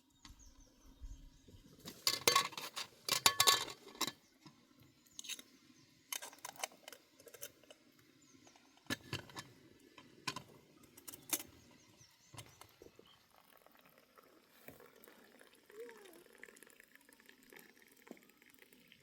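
Irregular clinks and knocks of hard objects being handled, with a dense flurry of them about two to four seconds in and then scattered single clicks.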